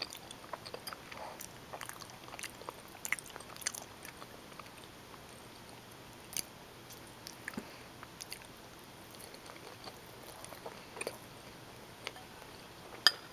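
Close-miked mouth sounds of someone eating bowtie pasta in tomato sauce with Italian sausage: chewing with wet clicks and smacks, frequent over the first few seconds, then sparser, with one sharper click near the end.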